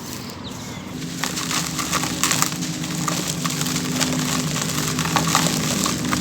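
Dry sand-cement chunks crumbling in water: a dense, fizzing crackle of tiny cracks that starts about a second in and grows busier, with a low steady tone underneath.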